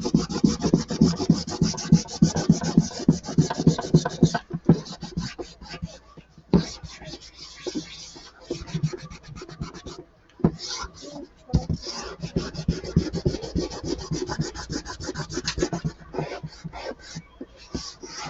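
Pencil eraser rubbing on drawing paper to remove pencil marks, in fast back-and-forth strokes. The strokes come in runs with a few short pauses.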